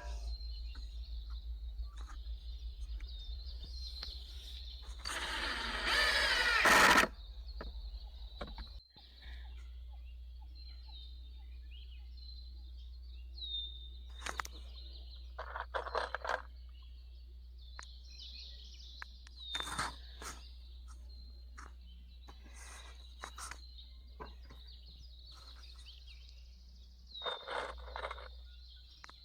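Small birds chirping repeatedly over a steady low hum, broken by a few short, loud bursts of noise, the longest lasting about two seconds near the start.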